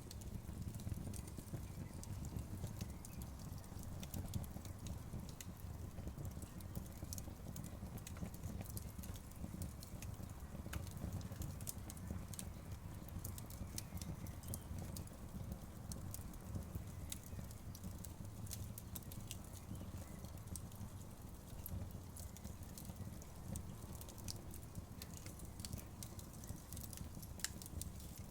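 Campfire crackling, with frequent sharp, irregular pops and snaps, over a low steady rush of a river.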